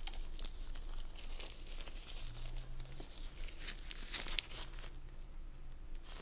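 Close-miked crinkling and crackling from ASMR props being handled, a run of short irregular crackles that is loudest about four seconds in.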